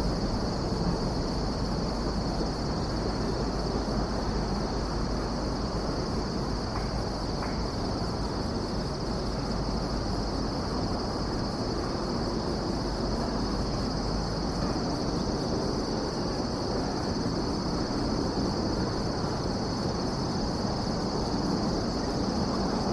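Chorus of crickets and other singing insects: a steady high trill with a second, fast-pulsing high chirp above it, over a constant low rumbling background.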